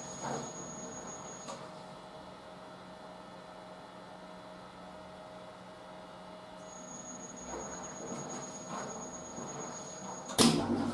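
Drum washing machine running, its drum turning with a steady motor hum and a high-pitched whine that stops about a second and a half in and returns later. A single sharp knock near the end is the loudest sound.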